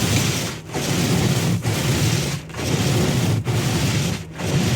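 Snow and ice being cleared from a car, with repeated scraping strokes about once a second.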